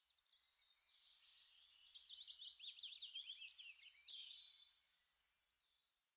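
Faint birdsong: several birds chirping, with a quick run of high, down-slurred notes in the middle.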